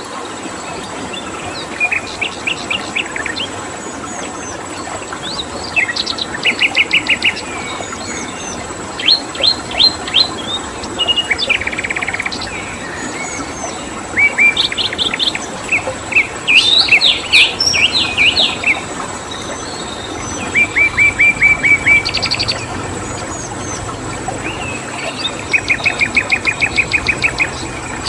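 Small birds singing in short bursts of rapid repeated chirps and trills, every few seconds, over the steady rush of a flowing stream and a thin, steady, high cricket tone.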